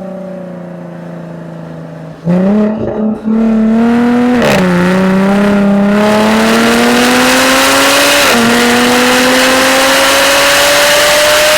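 Jaguar F-Type V6 S's supercharged 3.0-litre V6 exhaust, first running quietly off the throttle, then opened up about two seconds in. After a brief stutter it accelerates hard with rising pitch, with an upshift at about four and a half seconds and another at about eight seconds.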